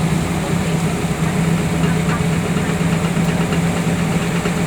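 Vehicle engine running steadily, heard from inside the car's cabin as an even low drone.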